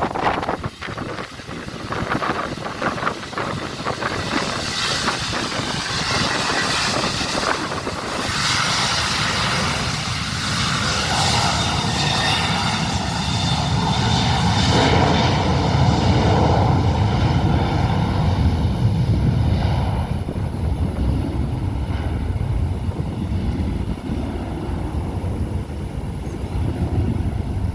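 Boeing 737-800 jet engines going by: a loud hiss and whine with faint steady tones for the first half, giving way about halfway through to a deep rumble.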